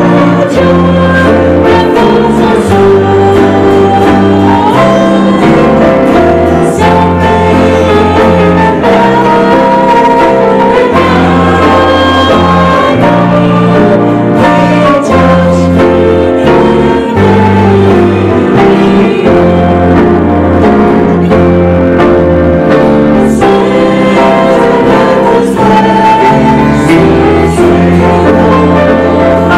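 A live church worship band playing a song with voices singing along, over a steady bass line that shifts notes every second or two.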